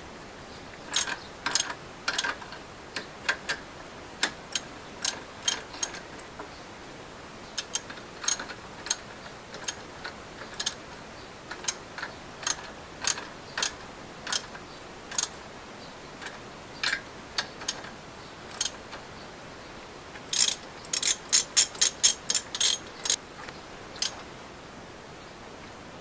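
A hand ratchet clicking in short, irregular strokes as a nut is worked, with a quicker run of louder clicks near the end.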